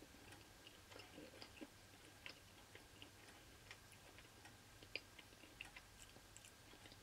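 Faint mouth sounds of someone chewing a piece of white chocolate: soft, irregular little clicks and smacks.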